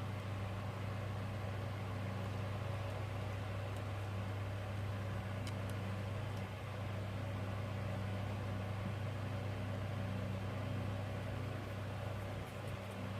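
Steady low electrical hum with a constant hiss of background noise, with a few faint small clicks about halfway through.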